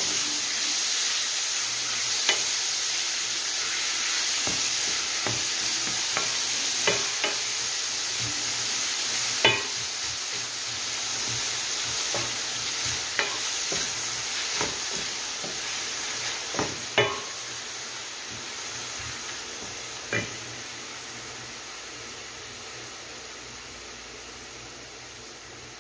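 Diced chicken sizzling as it fries in a stainless steel pan, stirred with a wooden spatula that knocks sharply against the pan a dozen or so times, the loudest knocks about nine and seventeen seconds in. The sizzle slowly fades toward the end.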